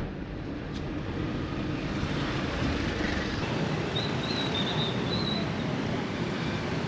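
Steady road noise of a vehicle driving through city traffic, a constant rumbling hiss. A faint, wavering high tone comes in about four seconds in.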